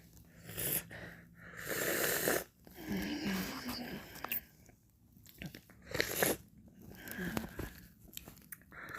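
Close-miked mouth sounds of eating and licking ice cream: wet licks, bites and chewing in separate bursts of about half a second to a second, with short quiet gaps between them.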